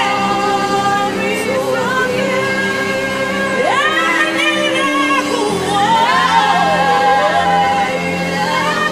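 Gospel worship music: a woman's voice singing long sliding runs over steady held chords.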